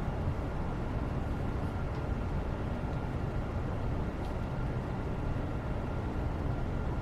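Steady low rumbling background noise with a faint steady high hum over it, and a couple of faint light ticks about two and four seconds in.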